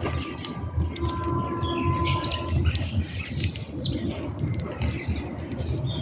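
A mixed group of birds chirping and calling, many short chirps overlapping, over a steady low rumble.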